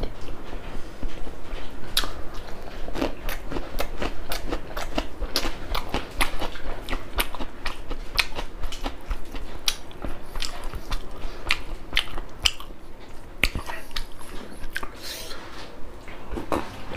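Close-miked chewing of mouthfuls of rice and pork, with many irregular sharp, wet mouth clicks. Near the end there is a drink from a steel tumbler.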